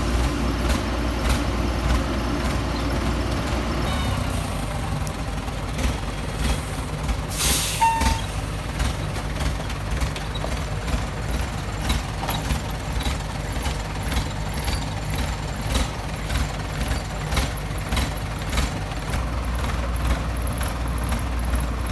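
Excavator's diesel engine running steadily, with scattered metal knocks and clanks and one short, loud hiss about seven and a half seconds in.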